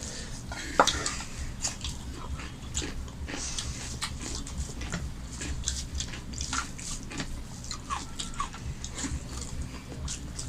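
Close-up mouth sounds of eating: wet chewing and lip smacking, with scattered small clicks over a steady low hum. One sharper click comes about a second in.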